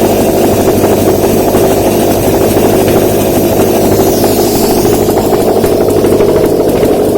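Subaru EJ204 2.0-litre flat-four boxer engine running steadily on a test stand, being bench-checked.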